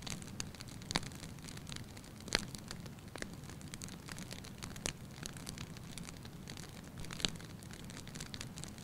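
Wood fire crackling in a fireplace: scattered sharp snaps and pops over a steady low rumble of the flames, with a few louder pops about one, two and a half, five and seven seconds in.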